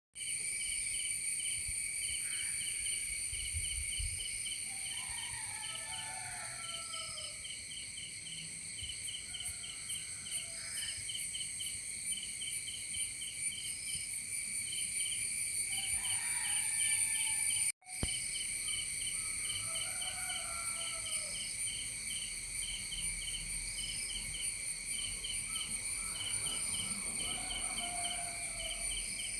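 A steady chorus of insects, crickets among them, chirping in rapid pulses and a continuous high buzz. Short bird calls come every few seconds. The sound cuts out for a split second just past the middle.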